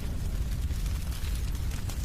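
Wood fire in a fireplace crackling, with many quick small pops and snaps over a steady low rumble.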